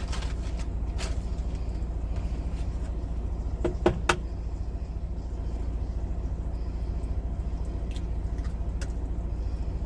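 Idling semi-truck engine giving a steady low hum, with a few sharp clicks of utensils or cookware about four seconds in.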